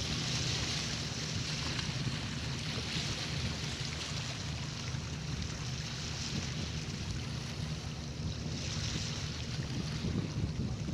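Sea waves washing and strong wind rumbling on the microphone, with a hiss of surf that swells and eases a few times.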